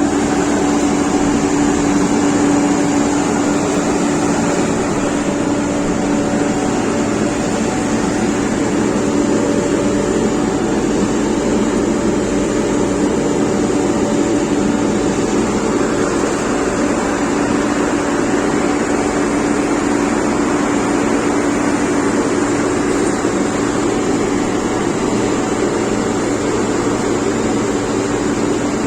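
Engine of road construction machinery running steadily at constant speed, with a steady hum.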